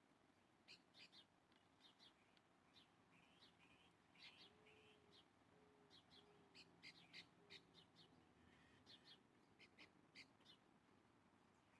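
Faint wild birds calling: many short, high chirps scattered throughout, with a run of four short, low notes from another bird around the middle.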